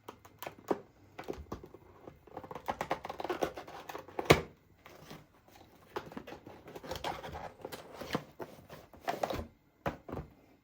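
Packaging being handled: rustling and crinkling with scattered small taps and clicks, and one sharper, louder knock a little over four seconds in.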